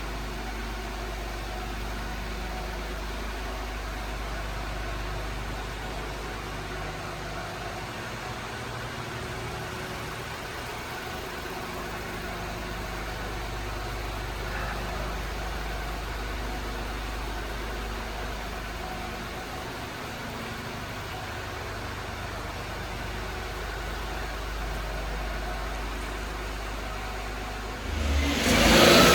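Steady low background hum, then about a second before the end a 2000 Suzuki Carry's 660 cc three-cylinder engine starts up and runs loudly, its pitch shifting.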